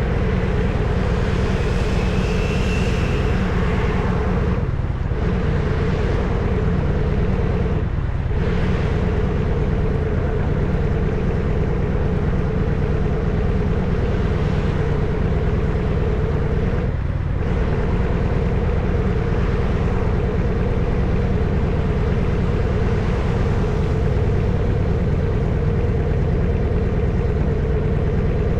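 Harley-Davidson FXSTS Springer Softail's Evolution V-twin engine running steadily while riding, with a deep, even exhaust note. The sound eases off briefly three times, about five, eight and seventeen seconds in.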